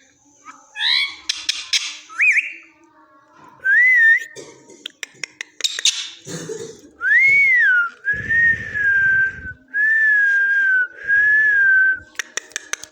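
A pet parrot whistling: short up-and-down whistled glides with sharp clicks between them, then three long whistled notes in a row, each sagging slightly in pitch, near the end.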